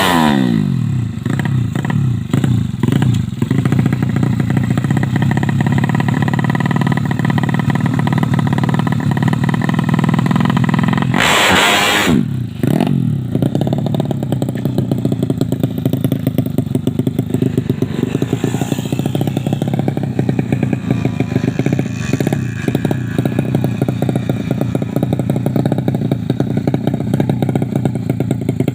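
130cc drag-bike motorcycle engine running at a steady idle, with small changes in pitch. A burst of noise lasting about a second cuts through it a little before the middle.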